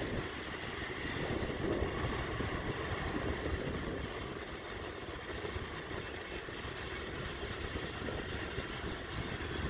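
Steady rumble of a freight train running at a distance, even in level with no sharp sounds.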